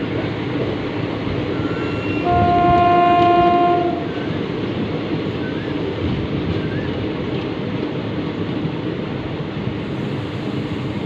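Train running along the track with a steady rumble, and its horn sounding once for about a second and a half, a couple of seconds in.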